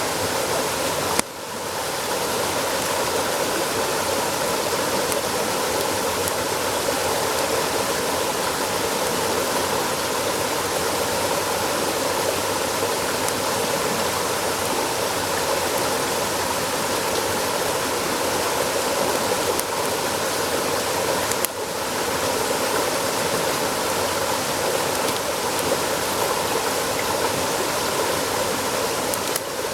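Steady rushing noise of flowing water, like a stream, dipping briefly twice.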